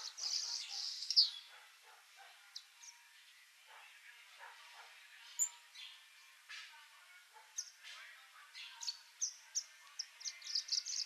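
Swallow-tailed hummingbird chirping: quick runs of short, high-pitched chirps, one burst at the start and another building near the end, with scattered single chirps between.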